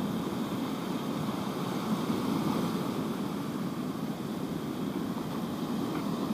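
Big sea waves breaking in a steady wash, with rain and wind on the microphone.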